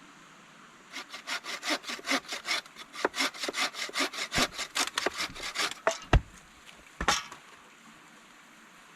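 Hand saw cutting through wood in quick back-and-forth strokes, about four or five a second for about five seconds. A heavy thud follows, then one last short rasp.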